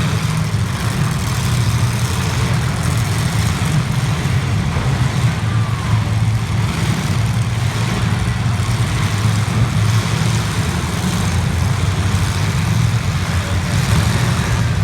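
Demolition derby cars' engines running steadily, a loud low drone without revving or crashes.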